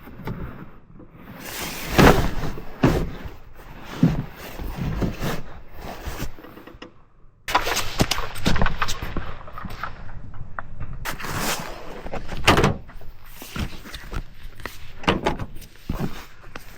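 A string of irregular knocks, thuds and rustles, as of camping gear being handled and packed away, with door-like thunks among them.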